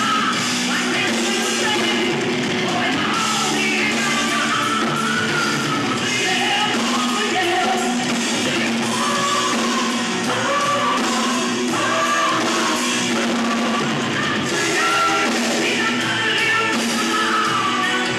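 Live rock band playing with a female lead singer belting out held, bending notes over the full band.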